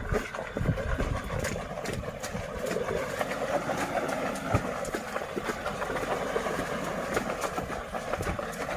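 Heavily loaded 4x4 pickup truck driving on a muddy dirt road, its engine running steadily, with scattered knocks and thumps.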